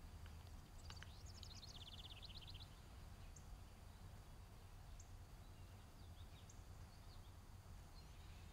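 Near silence, a low steady room hum, with faint birds chirping: a quick trill about a second in, then a few scattered single chirps.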